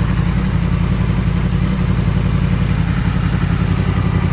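2018 Yamaha MT-10's crossplane inline-four engine idling steadily through an aftermarket exhaust, which is not too loud.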